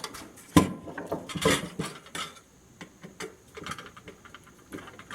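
Irregular metallic clinks and knocks of microwave parts and tools being handled, the loudest about half a second in, then lighter ticks and taps.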